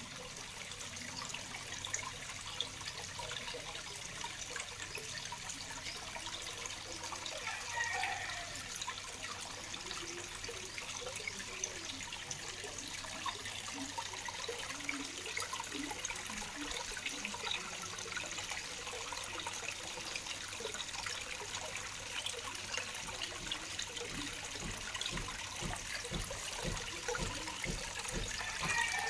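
Waterfall: a steady, continuous rush and splash of falling water.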